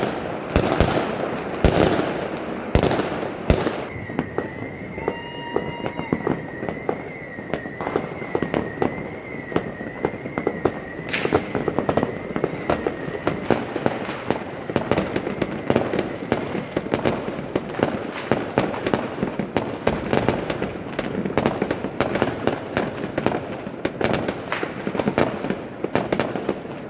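Fireworks and firecrackers going off in dense volleys, many sharp bangs and crackles in quick succession, heaviest in the first few seconds. From about four seconds in, a high wavering tone rises and falls evenly for around nine seconds under the bangs.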